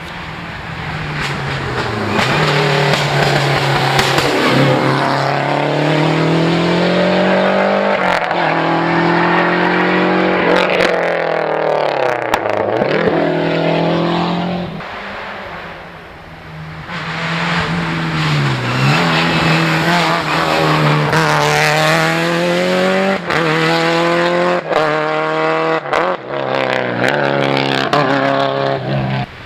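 Group B rally car engines under hard acceleration, the pitch climbing and dropping back again and again as they shift up through the gears. A first car fades out about halfway through, and a second comes up, revving through quick shifts near the end.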